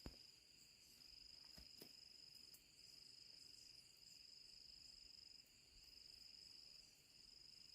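Faint, steady high-pitched insect trilling in long stretches with brief breaks between them.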